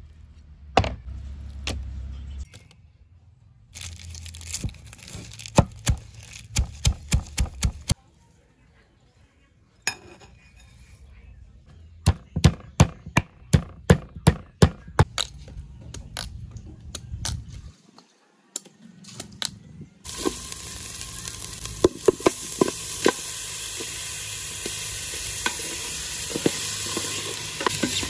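Two runs of sharp chopping strikes, about two a second, like a knife or cleaver on a cutting board. From about twenty seconds in, a steady sizzle of food frying in a hot pan takes over, with small crackles in it.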